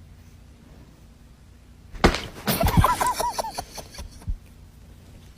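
A sudden knock and clatter about two seconds in, followed at once by a quick run of short, wavering high-pitched cries.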